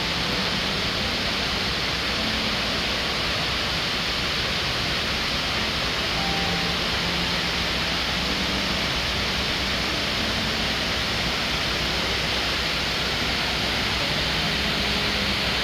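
A steady rushing hiss.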